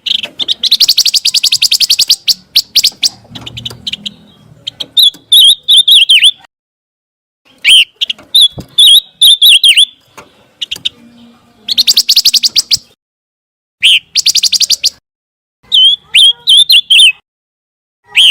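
Pancawarna songbird singing: fast buzzy trills of rapidly repeated notes alternate with shorter warbled whistled phrases, several phrases with brief silences between.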